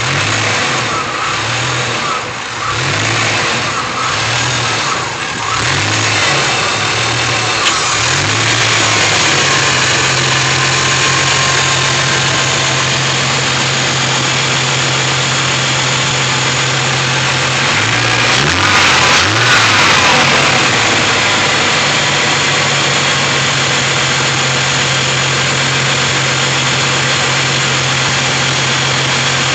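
A 1993 Chevrolet S10's 4.3-litre V6 with central port injection idling rough. For the first several seconds the idle surges up and down about every two-thirds of a second, then it settles into a steadier idle. A brief stumble comes again about eighteen seconds in before it steadies. The owner has replaced the spider injector, fuel and ignition parts, IAC and EGR without curing the rough idle.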